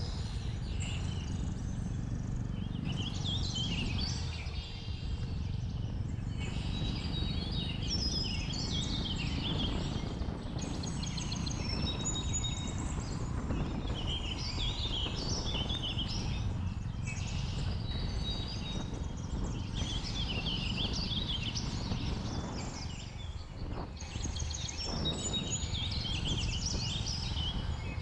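Steady low wind and road rumble from a moving motorcycle, with many birds chirping and calling over it.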